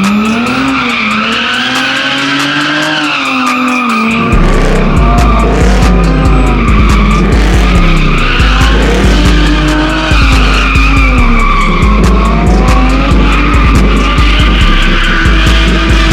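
A hip-hop beat, with heavy bass notes coming in about four seconds in, mixed with car engines revving up and down and tyres squealing.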